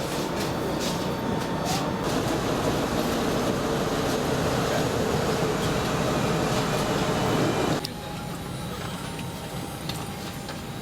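Steady vehicle rumble and noise that drops off suddenly about eight seconds in to a quieter, steady hum.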